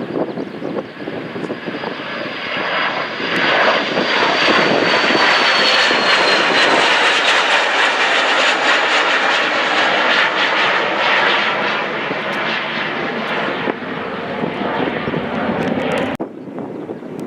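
Jet airliner's engines passing close by: a high whine that slides down in pitch over the first several seconds as the loud engine noise builds and holds through the middle, then the hiss drops away suddenly near the end.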